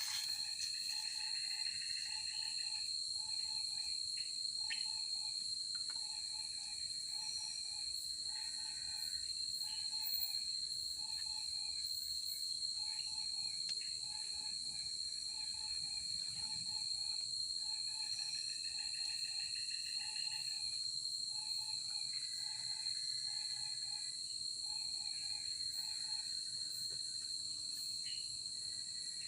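Forest insect chorus at night: a steady high-pitched cricket trill, joined by a lower call repeating in short pairs about once a second through most of it.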